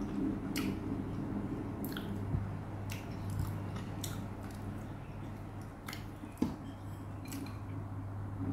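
A person chewing steamed bread close to the microphone: short mouth smacks and clicks about once a second over a steady low hum, with one louder low knock about six and a half seconds in.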